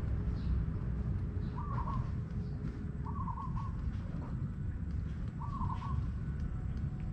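A bird calling a short phrase of a few quick notes, repeated about every two seconds, over a steady low rumble.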